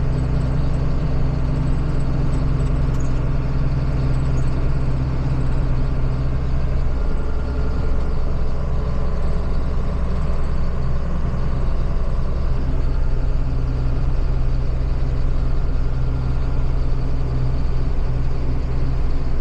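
Farm tractor's engine running steadily while the tractor drives along the road at about 10 mph, a deep even hum that wavers for a few seconds midway before settling again.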